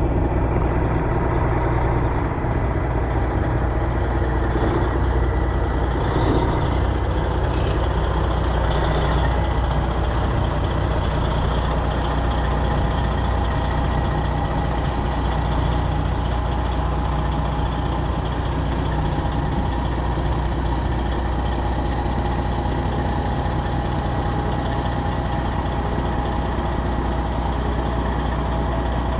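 Semi truck's Detroit Diesel 12.7 engine running steadily.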